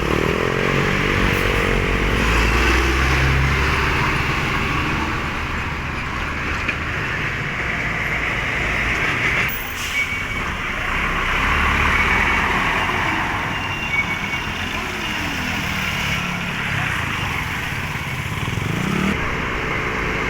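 Road traffic going by: trucks and other vehicles passing one after another, their engine notes falling and rising in pitch as they pass, over a steady rush of tyre noise.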